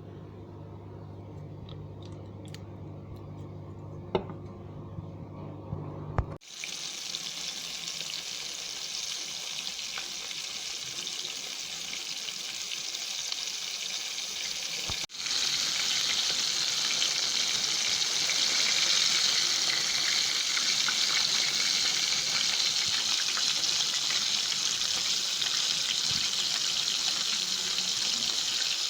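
Chicken frying in hot oil: a steady, crackling sizzle that comes in suddenly about six seconds in and grows louder around halfway through. Before it there is a low hum with a couple of clicks.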